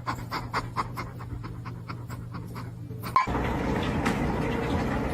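An animal panting in quick, short breaths, about five a second, over a low steady hum. About three seconds in it cuts off abruptly to a louder, even hiss-like background.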